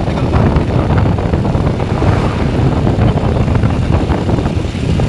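Steady, loud rumble of travel noise: wind buffeting the microphone together with the low drone of a moving vehicle.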